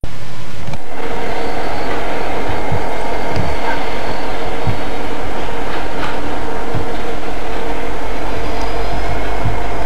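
A Chicago & North Western business train's cars rolling past: a steady rumble of wheels on rail, with short low thumps every second or two.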